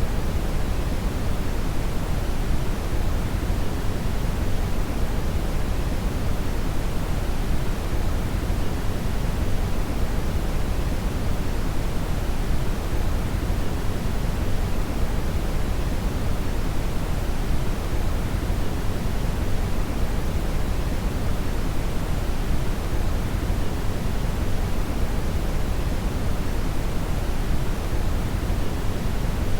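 Synthetic brown (Brownian/red) noise: a steady, even rushing hiss weighted heavily toward the bass, with no tones or events.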